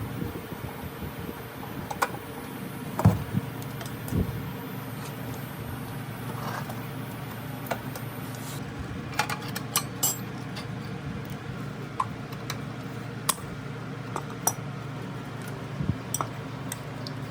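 Scattered sharp clicks and light metallic clinks and knocks of small metal parts and tools being handled, two heavier knocks about three and four seconds in, over a steady low hum.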